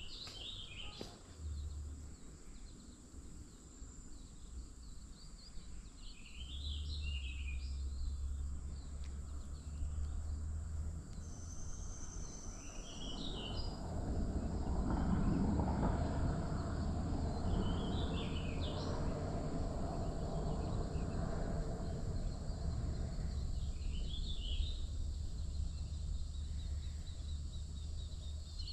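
Outdoor riverside ambience: a bird gives short chirping calls every few seconds over a steady low rumble. About halfway in, a broader rumbling noise swells up and carries on.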